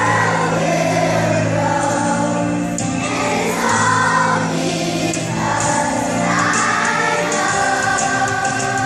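Music with a choir singing: many voices holding sustained notes over accompaniment.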